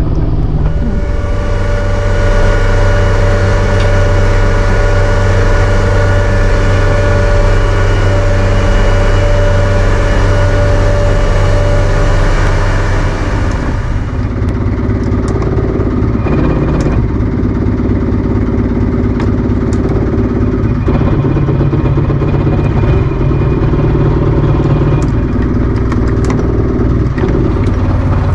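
Boat engine running under way with a steady hiss. About halfway through the hiss drops away and the engine settles to a lower, steadier note as it is throttled back.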